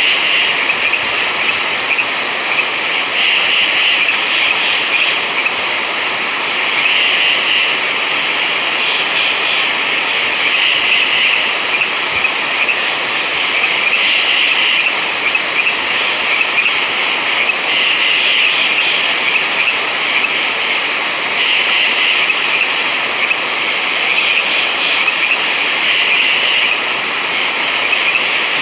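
Night chorus of frogs: a dense, steady trilling, with louder bursts of calling coming back every few seconds.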